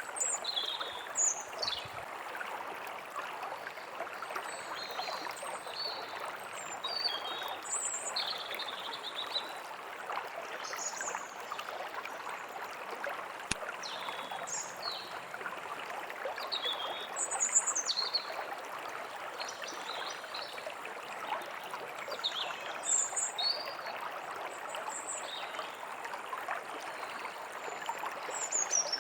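A stream running steadily over stones, with songbirds chirping in short, repeated high calls above it throughout.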